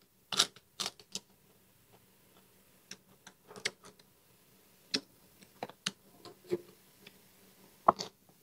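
Close-miked mouth sounds of someone eating a lettuce-wrapped bite of fried pork: scattered crisp crunches, wet chewing clicks and smacks. The loudest come just after the bite and again near the end.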